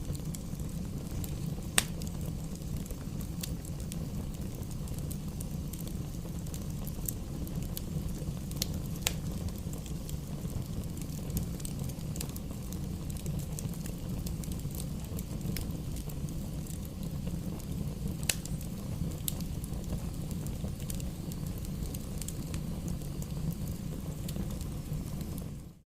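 Wood fire burning in a fireplace: a steady low rumble of flames with scattered sharp crackles and pops, the loudest about two seconds in. The sound drops out for a moment at the very end.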